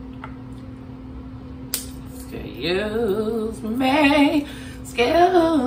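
A woman singing a short wordless tune in two phrases, starting about two and a half seconds in and again about five seconds in. Before that there is a single sharp click.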